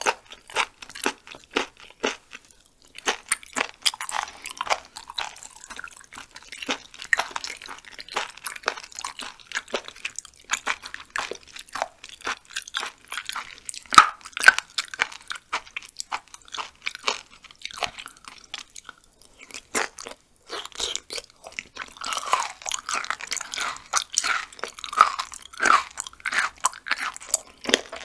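Chewing raw chicken gizzard: a dense run of sharp crunches and mouth clicks as the firm slices are bitten and chewed.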